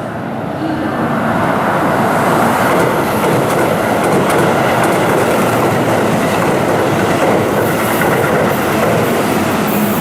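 Keihan 3000 series electric train running by: a loud, steady rush of wheels on rails that builds up about a second in, with faint clicks over the top.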